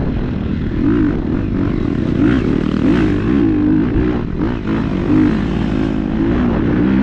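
KTM 250 dirt bike engine running under load, its pitch rising and falling over and over as the throttle is worked, with a few short knocks along the way.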